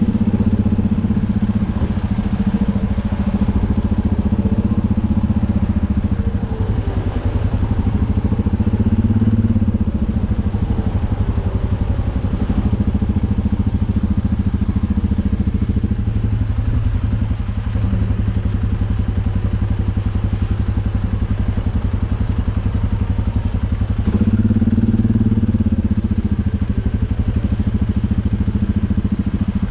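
U650 tractor's four-cylinder diesel engine running steadily under way, with slight swells in level.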